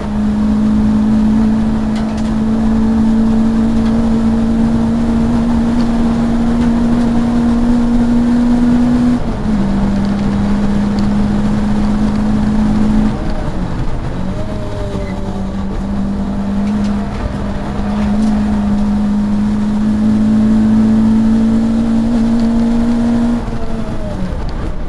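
Saloon race car's engine heard from inside the cabin, running hard at a steady high note that climbs slowly under acceleration. The pitch drops sharply about a third of the way in, dips with the loudness falling a little over half way, climbs again, and falls away near the end as the driver changes gear or lifts off.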